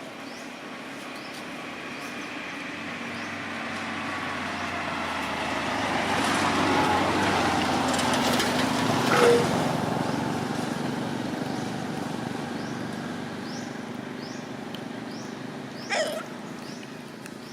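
A motor vehicle passing, its noise swelling slowly to a peak about eight seconds in and then fading away, with a brief squeak near the middle and a short sharp call near the end. Small high chirps repeat faintly throughout.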